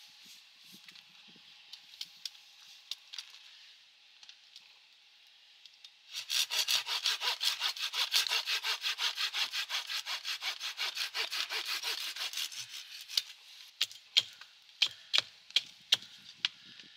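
Hand saw cutting through wood in quick, even strokes for about six seconds, starting about six seconds in, followed by scattered sharp clicks and snaps.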